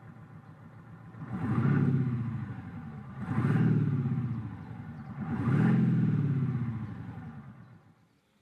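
BMW 7 Series revved three times, each rev rising and then falling in pitch, with a V8-style engine note played through a Maxhaust active sound generator.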